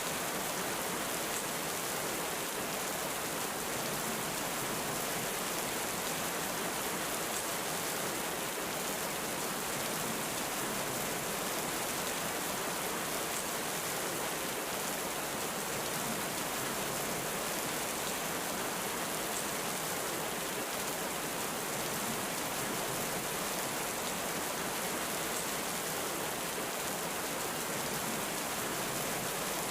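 Heavy rain falling steadily, an even hiss that does not change, with no thunder.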